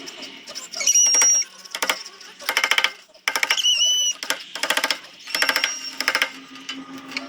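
A power sanding tool working a zelkova root piece in short repeated passes. Each pass is a rapid rattle lasting under a second, with a brief high squeal now and then.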